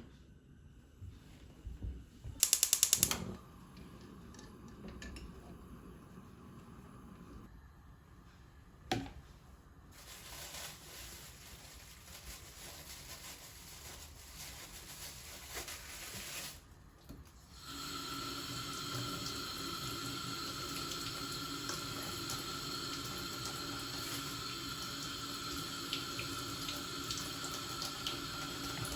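Tap water running into a sink: a softer flow for several seconds, then a brief stop and a steady, stronger stream for the last ten seconds or so. About three seconds in there is a short, loud burst of rapid clicking.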